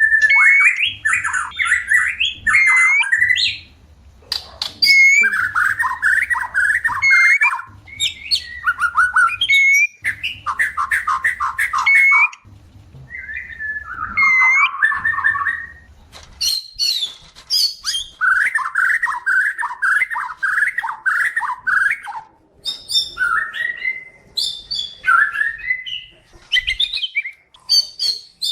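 White-rumped shama singing in breeding condition: fast chattering phrases of rising and falling notes, each a second or two long, repeated with short gaps, with some higher whistled notes mixed in.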